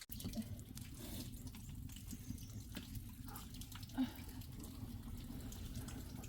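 Water running steadily, with scattered drips.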